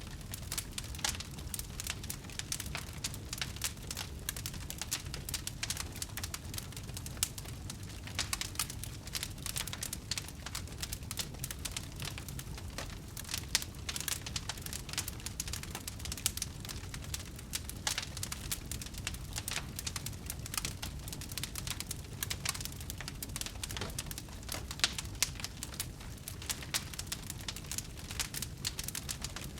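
Wood fire crackling: a dense run of quick dry pops and snaps, a few louder ones standing out, over a steady low rumble.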